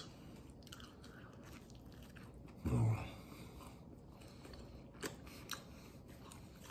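A man chewing a mouthful of pizza dipped in garlic butter sauce, with soft wet mouth clicks. A short, low hum of a sound from the eater comes about three seconds in.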